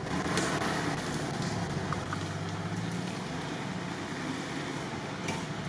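A car engine idling steadily, with a low even hum, and a faint tick or two.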